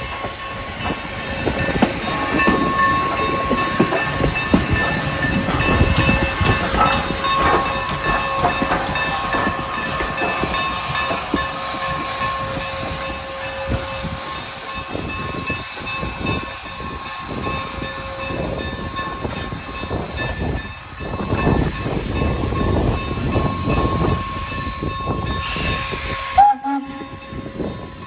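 Norfolk & Western No. 475, a 4-8-0 steam locomotive, working: irregular steam chuffs and hiss, with a steady high-pitched tone held underneath. A burst of hissing steam comes near the end.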